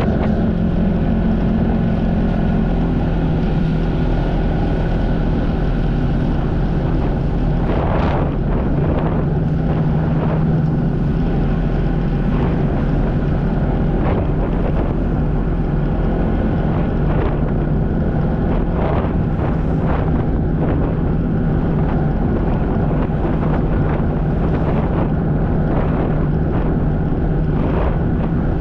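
Jet ski engine running steadily at speed, with wind buffeting the microphone and short irregular knocks as the craft meets the water.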